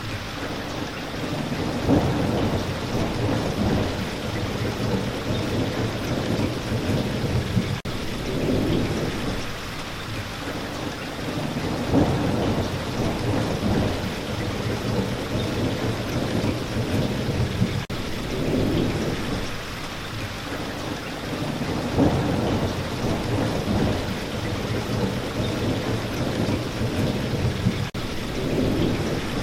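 Steady heavy rain with low rumbles of thunder swelling and fading every few seconds.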